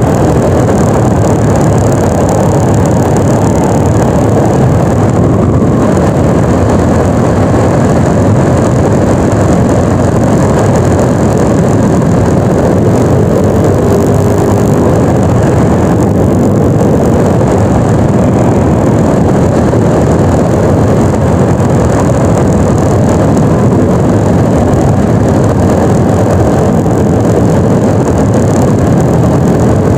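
Yamaha NMAX 155 scooter running steadily at riding speed, a loud, unvarying engine and road noise with no change in pace.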